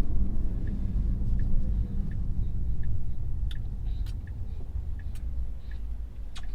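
Low, steady road and tyre rumble inside a moving Tesla's cabin, easing off toward the end. A faint regular tick sounds about every two-thirds of a second throughout.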